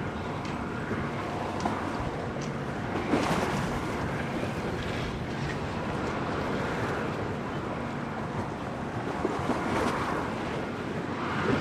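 Storm wind and sea waves in a harbour, the noise surging every few seconds as waves wash in and gusts pass, with wind buffeting the microphone.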